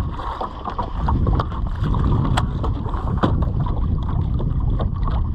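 Wind buffeting the microphone over the open water of a small boat, a gusting low rumble, with scattered light knocks and clicks from the boat.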